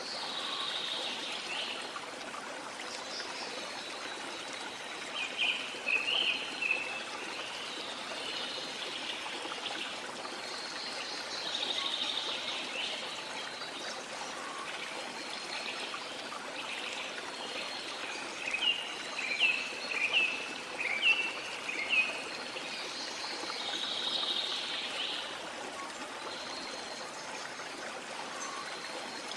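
Sea water washing in a steady hiss that swells twice, with small birds chirping over it in two bouts of short, quick notes.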